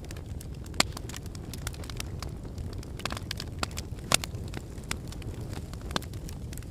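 Wood fire burning in a fireplace: a steady low rumble with irregular crackles and sharp pops from the burning logs, the loudest pops about a second in and about four seconds in.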